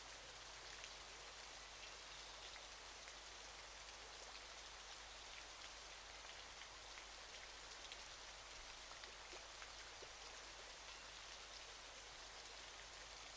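Faint, steady hiss of falling water with a fine patter of droplets, like rain or waterfall spray splashing on a surface.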